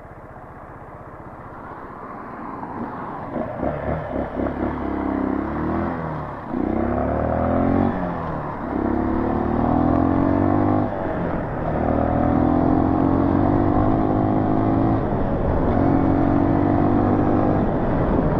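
Dirt bike engine pulling away and accelerating. It starts low and grows louder from about three seconds in, with its pitch breaking off and restarting several times as it shifts up through the gears, then runs more steadily near the end.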